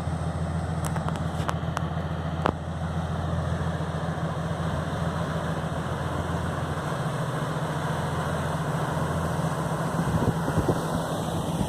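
Boat engine running steadily with a deep hum over water and wind noise, with a few light clicks in the first couple of seconds; the deepest part of the hum eases off about seven seconds in.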